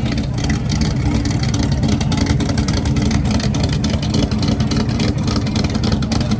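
A vehicle engine running steadily nearby, a continuous low rumble.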